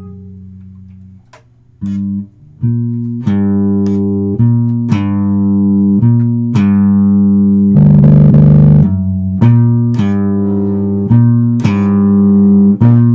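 Instrumental music of plucked electric bass and guitar notes, each struck and left to ring. It starts quietly, then from about three seconds in the notes come steadily, roughly one a second.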